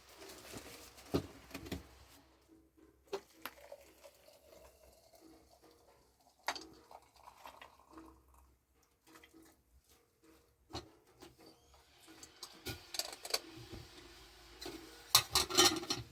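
Scattered light knocks and clatters of things being handled, with a quick run of clatters near the end.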